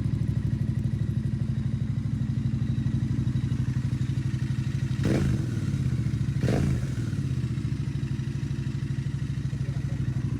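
Royal Enfield Bear 650's parallel-twin engine idling through its modified stock exhaust, opened up with the baffles replaced by a fibreglass-packed perforated core and a straight pipe in place of the pre-muffler. Two quick throttle blips come about five and six and a half seconds in, then it settles back to a steady idle.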